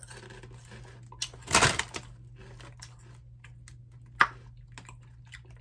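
Close-up chewing of a wavy potato chip, with one louder crunch about a second and a half in and a sharp click a little after four seconds, over a faint steady low hum.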